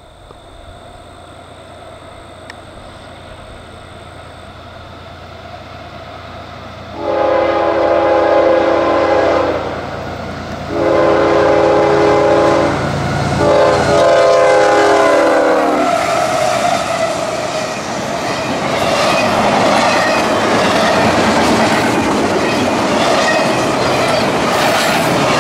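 CSX diesel freight locomotive approaching, its rumble slowly building, then sounding its horn in three long blasts from about seven seconds in. After the horn, the double-stack train rolls past close by, loud, with its wheels clattering on the rails.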